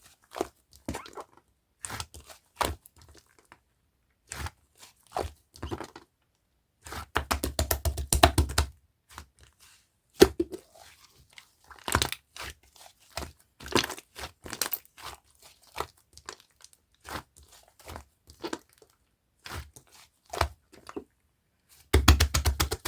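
Clear slime mixed with clay being squeezed and pressed by hand, making irregular sticky clicks and pops. There are two runs of fast clicking, about seven seconds in and again near the end.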